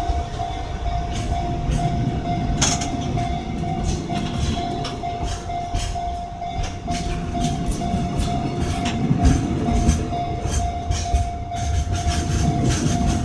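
Freight train passing, its wagon wheels clacking over the rail joints, the clacks coming faster and louder near the end, over a steady rumble and a steady whine.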